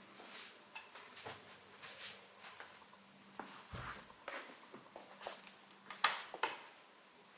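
Scattered small clicks, taps and rustles of objects being handled, with two sharper clicks about six seconds in.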